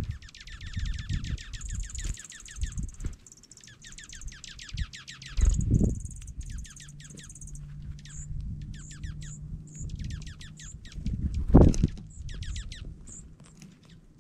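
Dark-eyed juncos twittering and chipping: quick runs of high chip notes and rapid trills, with single sharp high chips in between. Twice, about five and a half seconds in and again near twelve seconds, there is a loud dull low thump.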